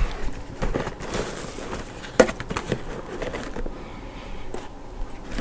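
Scattered light clicks and rustles of small objects being handled.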